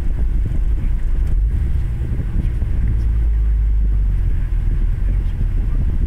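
2000 Honda Accord's V6 engine running, a steady low drone with some rumble.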